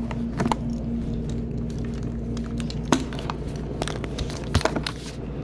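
Scattered clicks and light knocks of objects being handled, over a steady low hum, with a sharper knock about three seconds in and another near the end.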